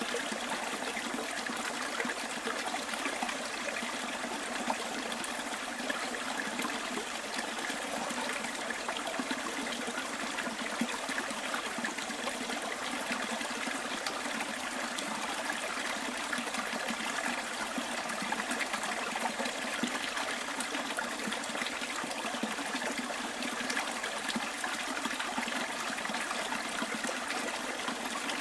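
Small stream trickling steadily, an even, unbroken rush of running water.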